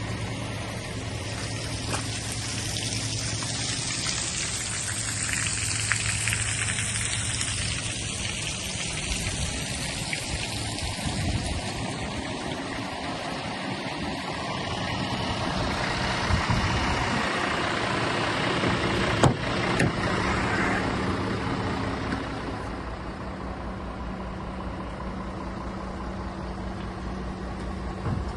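Scania G450 tipper's diesel engine idling steadily. Two sharp clicks come about two-thirds of the way through.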